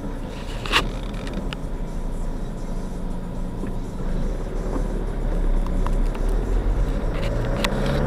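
Car engine and road noise heard from inside the cabin as the car rolls slowly, then pulls away, the engine rising in pitch and getting louder over the last couple of seconds. A sharp click about a second in and a few lighter clicks near the end.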